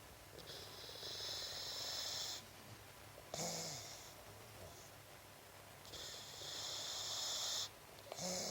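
Boxer puppy snoring in deep sleep. There are two long, hissing snores of about two seconds each; each grows louder and then cuts off sharply, and each is followed by a short breath.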